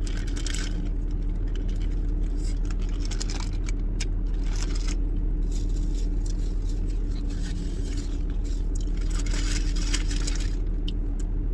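Steady low hum of a parked car's engine running, heard from inside the cabin, with a burger's paper wrapper rustling and chewing in several short bouts.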